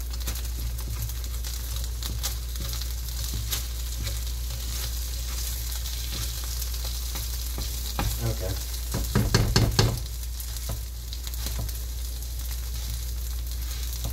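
A mashed potato pancake frying in a pan with a steady sizzle over a low hum. About nine seconds in, a slotted spatula scrapes and presses against the pan in a quick run of strokes.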